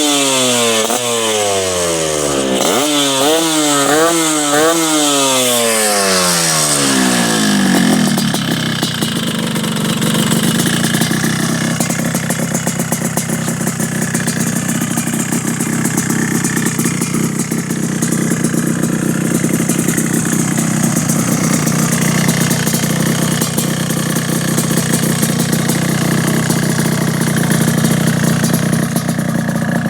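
Yamaha RX-King's single-cylinder two-stroke engine, fitted with an aftermarket Lobster exhaust, revved in several quick blips. The pitch falls back and it settles to a steady idle about eight seconds in.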